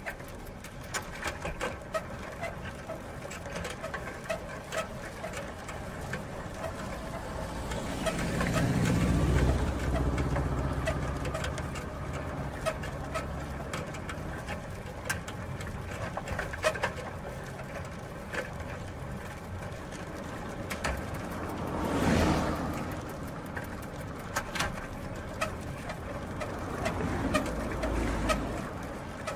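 Bicycle wheel and drivetrain sounds: irregular sharp clicks over a steady whir that swells up about eight seconds in, again more sharply around twenty-two seconds, and once more near the end.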